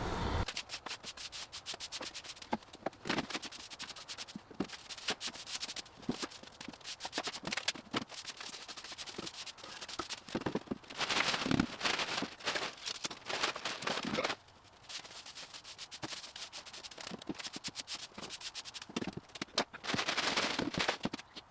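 A broom sweeping sawdust, with repeated scratchy brush strokes and many small crackling clicks. Some stretches of strokes are louder than others.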